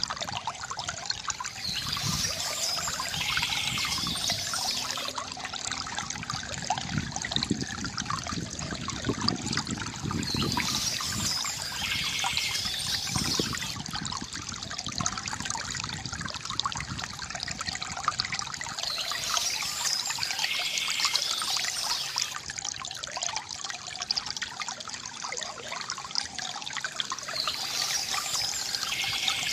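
Shallow river water trickling and gurgling over stones in a steady, dense babble. A brighter, hissing layer swells in about every nine seconds and fades after two to three seconds.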